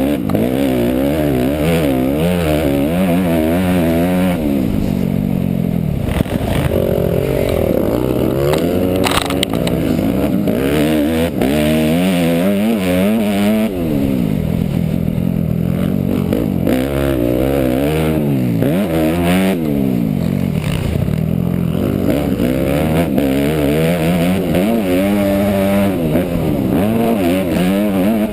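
Motocross dirt bike engine being ridden hard. The revs climb and fall again and again, every few seconds, as the throttle is worked, with a few brief clatters mixed in.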